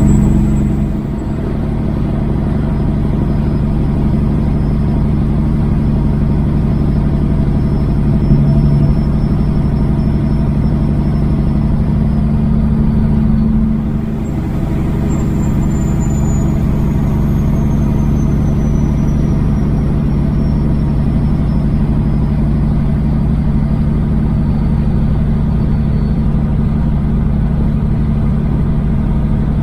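Semi truck's Caterpillar diesel engine running steadily under way on the highway. The engine note dips briefly twice, about a second in and about fourteen seconds in, and changes pitch after each dip.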